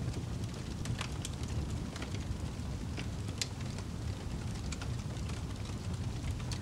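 Wood fire crackling in a fireplace: scattered sharp pops and snaps, several a second at irregular moments, over a steady low rumble.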